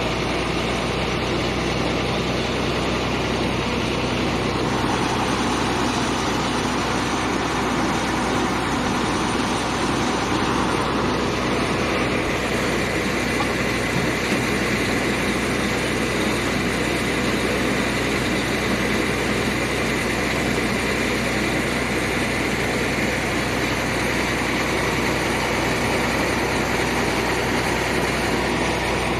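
Heavy diesel engine running steadily, with its tone shifting slightly partway through.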